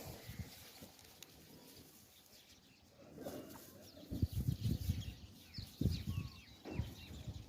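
Small birds chirping many times over, starting about three seconds in. Low dull bumps and rumbling come in over them from about four seconds.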